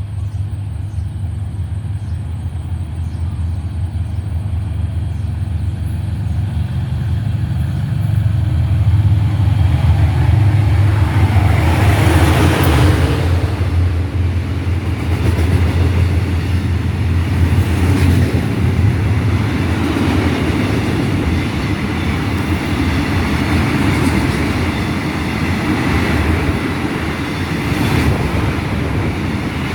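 A diesel-hauled freight train passing close by: the locomotive's deep engine rumble builds and peaks about twelve seconds in as it goes past, then the freight wagons roll by with a steady rumble and rattle and occasional sharp wheel clicks.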